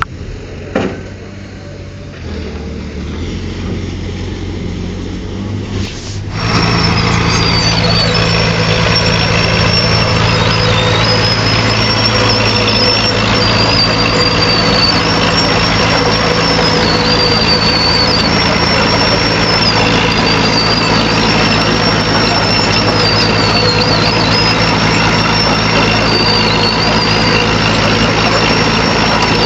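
Heavy earthmoving machine's diesel engine running, fairly quiet at first, then abruptly louder about six seconds in and steady after that. From that point a high, thin squeal wavers up and down in pitch over the engine.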